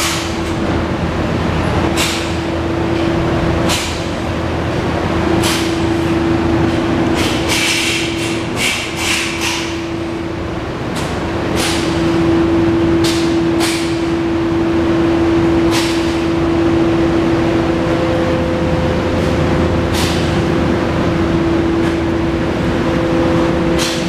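A 2002 Honda VFR800's V4 engine idling steadily, with a constant hum. Several sharp clicks and knocks cut in, a cluster of them about a third of the way through.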